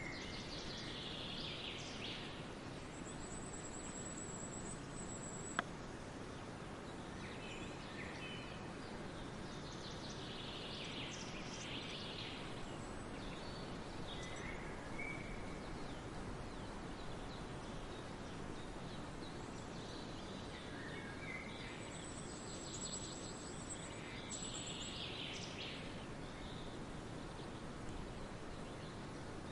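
Forest ambience: a steady background hiss with scattered birdsong, heaviest near the start, around ten seconds in and again about twenty-two to twenty-six seconds in. A thin, very high trill sounds twice, and there is one sharp click a little over five seconds in.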